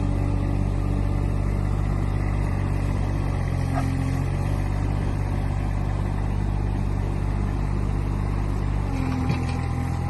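A vehicle engine running at a steady speed, a constant low drone with no breaks; its tone shifts slightly about nine seconds in.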